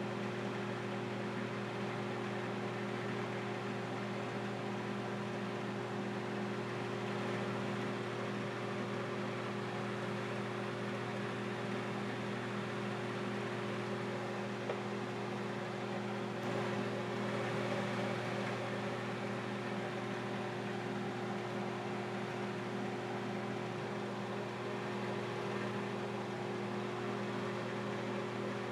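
Microwave oven running steadily, its transformer humming and fan whirring while it heats hookah coals on a plate, with one faint click about halfway through.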